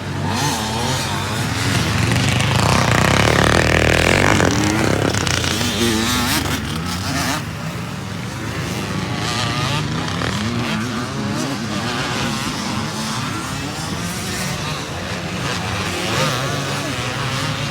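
Motocross motorcycle engines revving hard, pitch climbing and dropping over and over as the bikes accelerate and shift, loudest a couple of seconds in.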